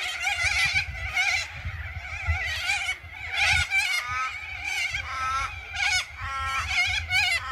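A large flock of corellas screeching, many harsh, wavering calls overlapping without pause.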